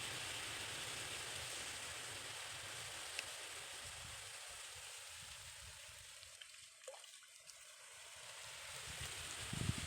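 Steady rushing of flowing stream water, fading down a little past the middle and rising again near the end.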